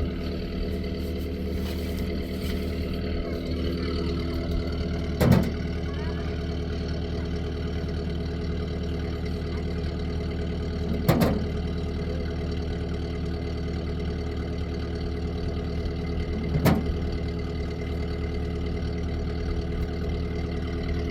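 Vehicle engine running at a steady speed, with three short knocks spaced about six seconds apart.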